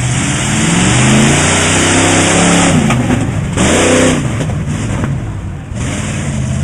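Truck engine revving hard: its pitch sags, then climbs steeply and drops off about four seconds in, over a loud rushing noise.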